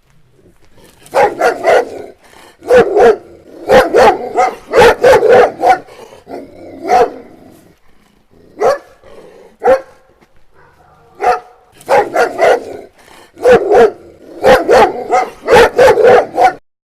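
A dog barking repeatedly, in quick runs of two to four sharp barks separated by short pauses.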